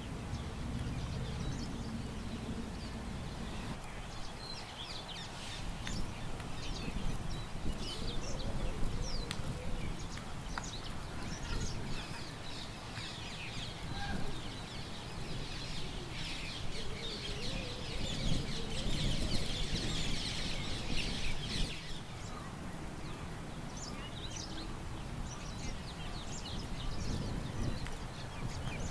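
Birds chirping in many short, high calls, thickest for a few seconds about two-thirds of the way through, over a low rumble of wind.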